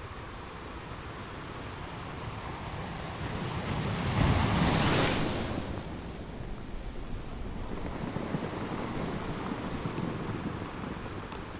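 Caribbean Sea surf: a wave builds and breaks loudly about four seconds in, then washes back, with wind on the microphone.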